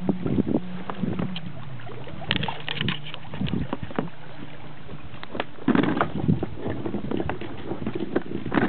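Kayak paddling: paddle splashes and knocks with the water sloshing, with a louder cluster of splashes about six seconds in.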